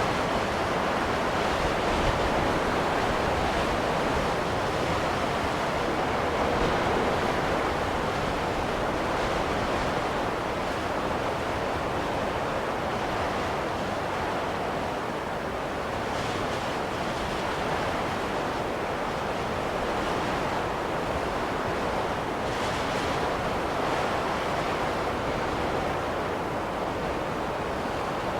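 Steady rushing wind of a snowstorm, swelling and easing slightly in slow gusts.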